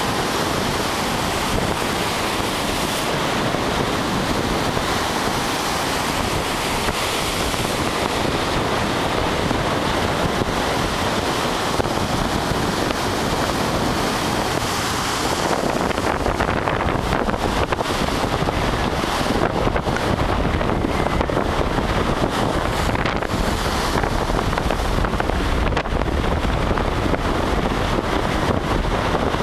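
Waves breaking on a beach as a continuous rush, with strong wind buffeting the microphone. The low wind rumble grows heavier about halfway through.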